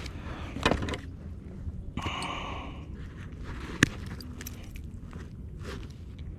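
Handling noises from fishing gear on a kayak: a few sharp clicks and knocks and a brief scraping rustle over a low wind rumble.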